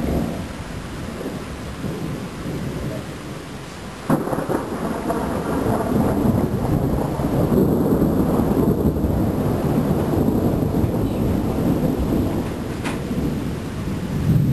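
Thunderstorm: a sudden thunderclap about four seconds in, followed by a long rolling rumble of thunder, over steady rain.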